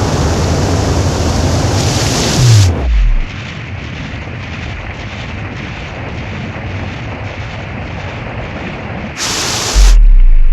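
Cinematic sound-design effects: a loud whoosh that ends in a deep falling boom, then a steady hiss with faint regular ticks, then a second short whoosh and a deep sub-bass boom near the end.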